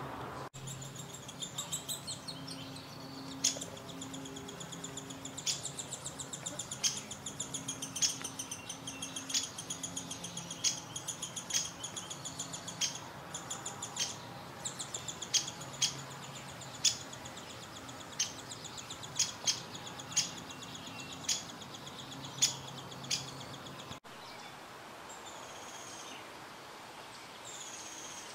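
Small birds calling: a continuous high, buzzy call with sharp chirps about once a second. It stops abruptly about 24 seconds in, and a few faint, high, down-slurred calls follow.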